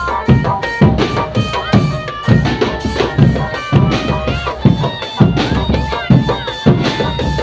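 Street drum band playing: bass drums keep a steady beat, about three hits every two seconds, under a reedy wind-instrument melody.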